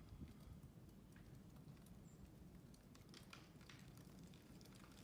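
Near silence, with faint scattered light ticks and clicks over a low background hum.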